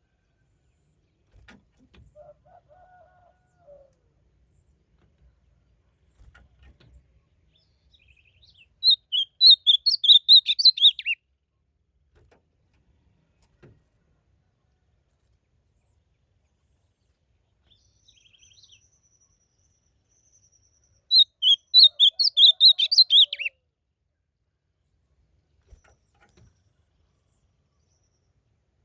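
Ultramarine grosbeak (azulão) singing: two short, loud warbled song phrases, each about two and a half seconds long, roughly twelve seconds apart.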